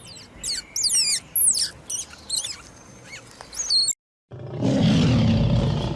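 A series of quick, high-pitched whistled chirps that sweep down in pitch, like bird calls. After a brief break comes a loud, rough roar-like animal call lasting about a second and a half.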